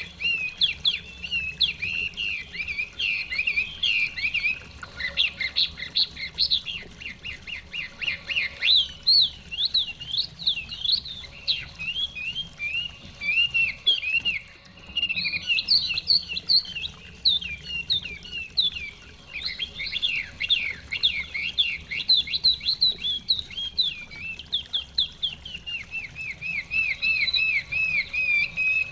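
Chinese hwamei singing: a long, almost unbroken run of loud, varied whistled phrases, many built from quickly repeated sweeping notes.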